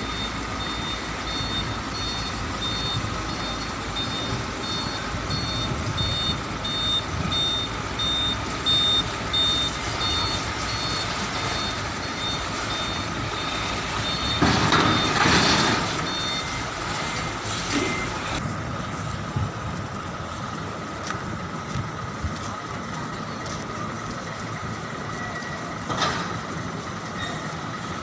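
Truck reversing alarm beeping over and over above the steady running of a truck's diesel engine while the truck manoeuvres its trailer. A loud hiss cuts in about halfway through, and the beeping stops soon after, leaving the engine running.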